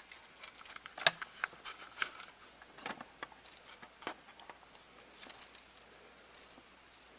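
Irregular light clicks and taps of a plastic VHS cassette and its tape being handled during a repair, the sharpest click about a second in.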